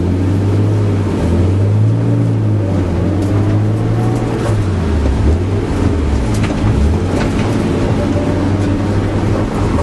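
Nissan Sil80 drift car's turbocharged RB25DET straight-six under way, its engine note rising and falling several times as it accelerates and lifts.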